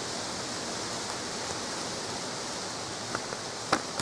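A burning notebook hissing steadily, with a few sharp crackles about three seconds in and near the end.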